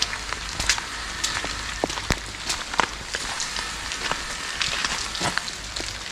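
Steady rain falling, an even hiss with sharp drop ticks scattered through it.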